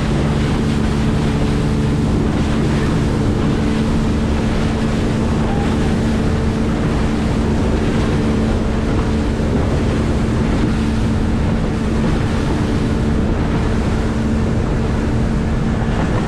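A boat's engine running steadily at a constant low speed, with wind buffeting the microphone.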